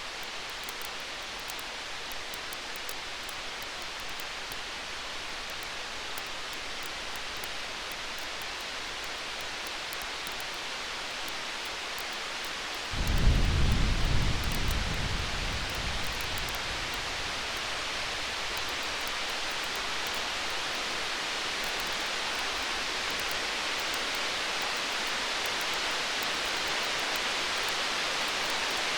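Steady hiss of a stormy night with faint crackling from a campfire. About 13 seconds in, distant thunder breaks in suddenly as a deep rumble and fades away over about three seconds.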